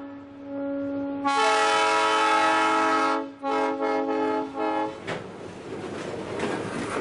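Freight train horn sounding: a long blast, then two shorter ones ending about five seconds in. Freight cars then roll past close by, rumbling, with a few clanks from the wheels.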